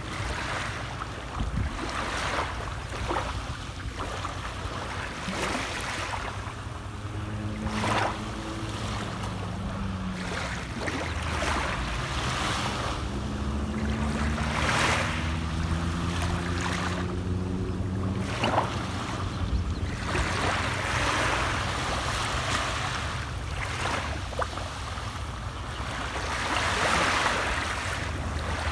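Sea waves washing in and breaking, the surf swelling and falling back every few seconds. A faint low hum runs under the surf through the middle stretch.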